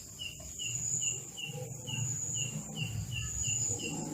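Insects chirping: a steady high-pitched trill with a lower chirp repeating about three times a second, over a low rumble.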